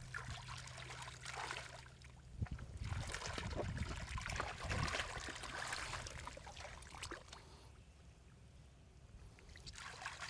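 Shallow water splashing and sloshing in bursts, with a few knocks and low thumps in the middle; it eases off near the end.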